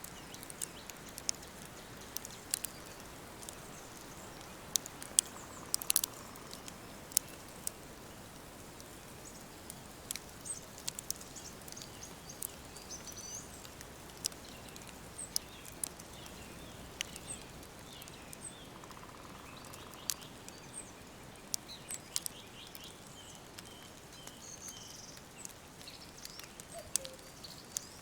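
Wood fire crackling with sharp, irregular pops over a steady hiss, while small birds chirp in short high notes, including a quick run of repeated notes in the second half.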